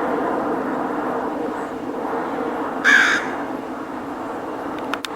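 A single short, harsh cawing bird call about three seconds in, over a steady low background hum.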